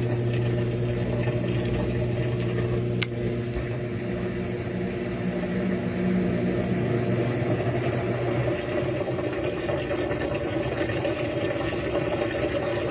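RCA RPW302 portable washing machine running its drain cycle after the soak, pumping the wash water out from the bottom of the tub with a steady motor hum. A single sharp click comes about three seconds in. A low part of the hum drops out about eight and a half seconds in while the rest keeps running.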